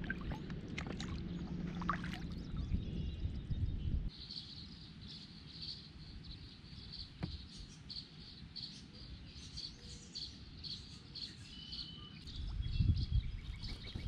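Birds chirping from the shoreline, a steady run of short high chirps repeated over and over. A low rumble covers the first few seconds and comes back near the end.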